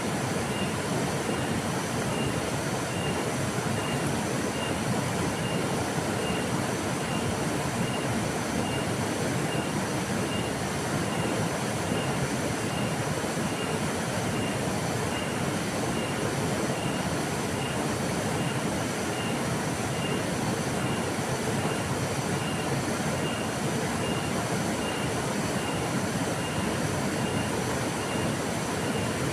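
Steady rushing of a flowing river, an even wash of water noise that does not change. A faint high-pitched chirp repeats about every half second behind it.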